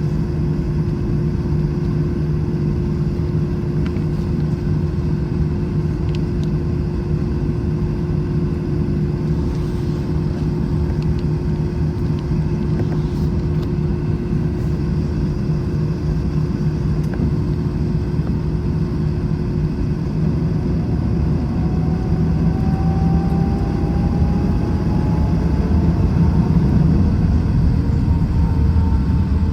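Airbus A321 cabin noise while taxiing: a steady low rumble with a constant hum. About two-thirds of the way in, a whine starts and rises in pitch and the sound grows a little louder as the engines spool up.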